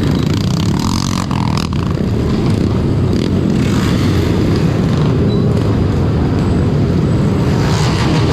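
Yamaha Lander 250's single-cylinder engine running at road speed, with other motorcycles around and heavy low rumbling noise throughout.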